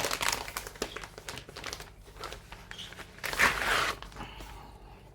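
Packaging of a cross stitch kit crinkling and rustling as the kit is taken out, with crackly handling through the first second and a louder rustle about three and a half seconds in.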